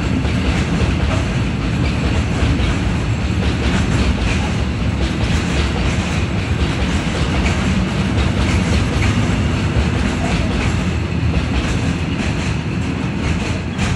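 Freight train wagons rolling past at speed, a steady loud rumble with the wheels clacking over the rail joints.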